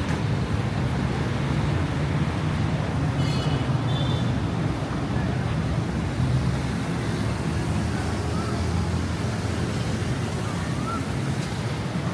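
Busy city street with steady traffic noise, a continuous low rumble of passing vehicles. A few brief high-pitched tones cut through it about three to four seconds in.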